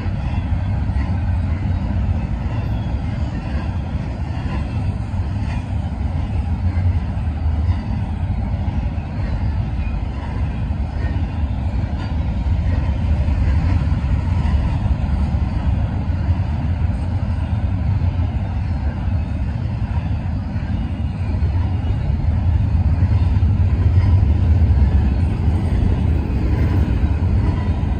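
Double-stack container train's well cars rolling past, a steady low rumble of steel wheels on rail that grows a little louder about three-quarters of the way through.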